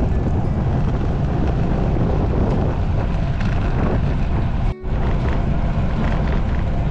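Wind buffeting a bicycle-mounted camera's microphone while riding at speed, a loud, steady low rumble with road and tyre noise mixed in. It drops out for a moment just under five seconds in.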